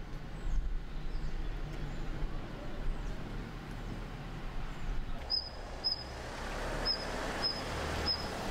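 Outdoor ambience: a steady low rumble, with a small bird giving five short high chirps about half a second to a second apart in the second half, while a rushing noise swells toward the end.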